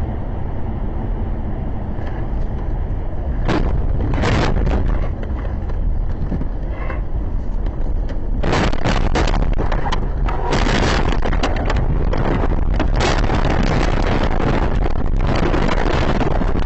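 Vehicle noise on a dashcam microphone: a loud, steady low rumble with scattered crackles and knocks, which come thick and fast from about halfway through.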